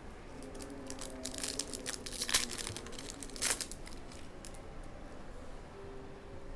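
Trading-card pack wrapper crinkling and tearing open, a run of crackles with two louder rips, one a little after two seconds in and one about three and a half seconds in.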